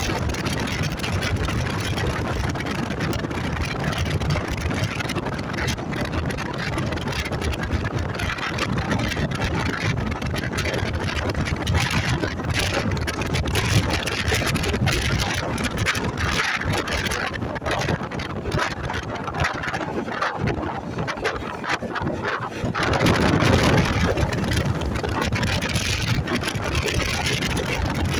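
Motorcycle engine running under way, mixed with wind rushing over the microphone, steady throughout with a louder swell toward the end.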